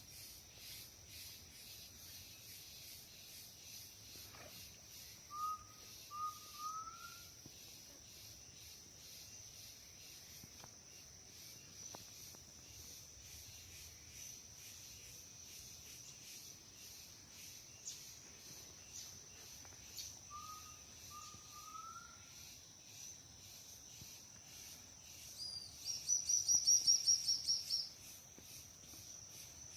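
Forest ambience at dusk: a steady, high-pitched insect drone, a bird giving a short phrase of three rising notes twice, and a loud, rapid pulsing trill lasting about two seconds near the end.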